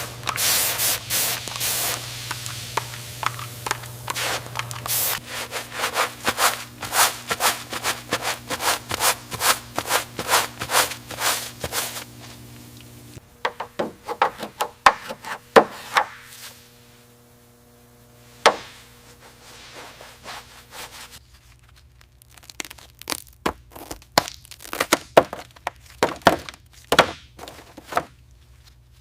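A run of sharp knocks, taps and scrapes, like tools being worked by hand, coming in quick clusters with a lull in the middle. A steady low hum runs underneath for about the first half and then stops.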